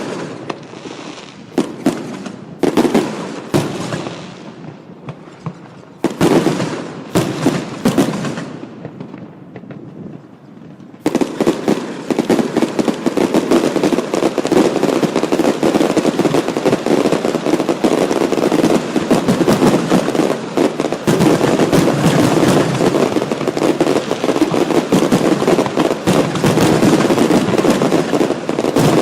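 Aerial fireworks going off: separate shell bursts with crackling tails for roughly the first ten seconds, then about eleven seconds in a sudden, dense barrage of rapid bangs that keeps going without a break.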